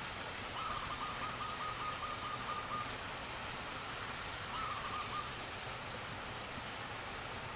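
A bird's rapid trilling call, held for about two seconds, then repeated briefly a couple of seconds later, over a steady background hiss.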